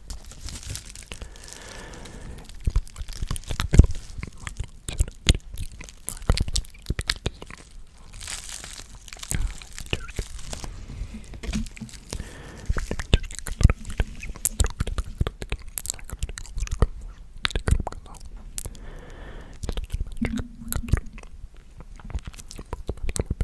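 ASMR mouth sounds close to the microphone: irregular wet clicks and smacks of lips and tongue, with soft unintelligible whispering in places.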